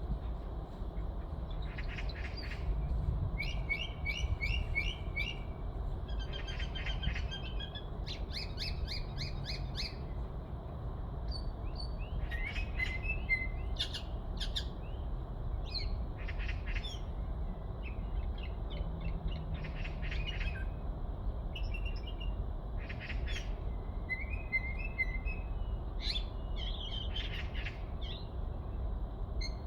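A songbird sings short phrases of quick, repeated notes, a new phrase every second or two, and the uploader takes it for a Chinese blackbird. A low, steady rumble runs underneath.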